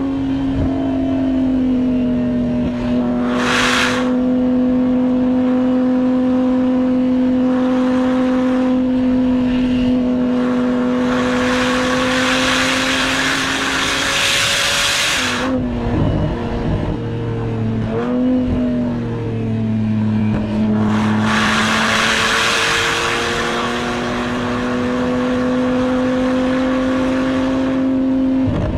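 Porsche 987 Boxster Spyder's 3.4-litre flat-six heard from inside the cabin, pulling at steady revs. About halfway through the revs drop and waver, then climb and settle steady again. A rushing noise swells and fades over it several times.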